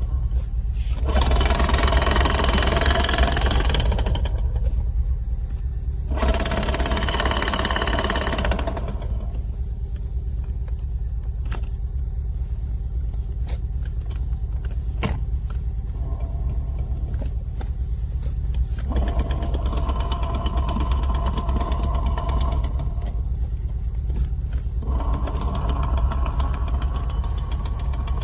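A Lada Niva's drivetrain running with a steady low rumble, rising four times into louder stretches a few seconds long. This is the very strong knock and vibration of a freshly rebuilt transfer case, caused by a defective high-gear drive-shaft gear with an under-cut tooth.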